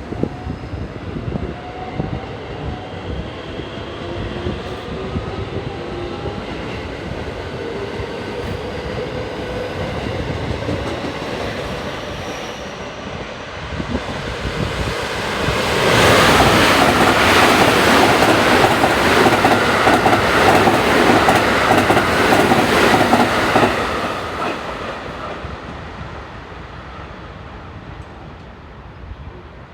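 An electric JR West Special Rapid Service train passing through the station at speed without stopping. It builds up as it approaches, is loudest for about eight seconds in the middle with its wheels clacking rapidly over the rail joints, then fades away.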